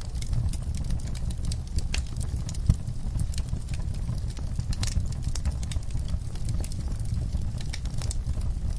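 Wood fire burning in a fireplace: a steady low rumble of flames with frequent small pops and snaps of burning logs, one louder pop about a third of the way in.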